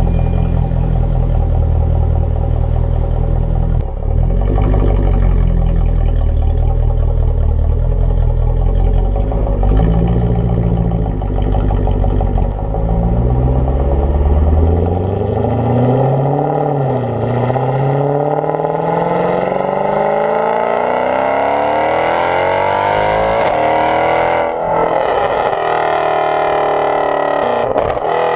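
Straight-piped, remapped Mercedes C63 AMG with a naturally aspirated V8, its exhaust running with a strong, steady low rumble. About halfway through it revs up in one long rising pull, with a couple of abrupt breaks near the end.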